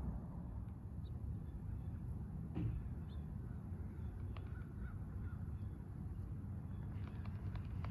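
Faint bird calls over a steady low outdoor rumble.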